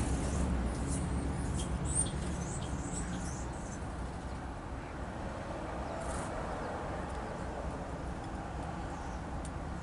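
Small songbirds chirping: short, high, thin calls, mostly in the first three seconds, over a steady low rumble.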